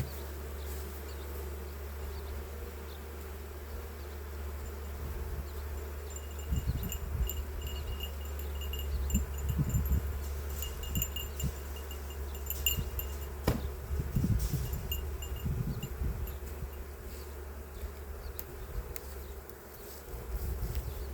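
Swarm of honey bees buzzing around an open hive, agitated as the beekeeper works it. Faint high ringing tones come and go in the middle, and irregular low gusts start about six seconds in.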